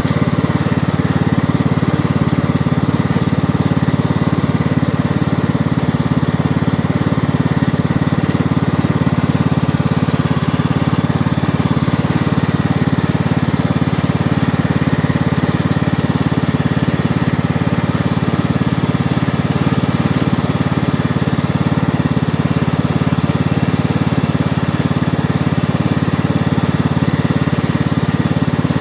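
John Deere lawn tractor's 540cc, 18 hp engine running steadily at a constant speed while the tractor is ridden.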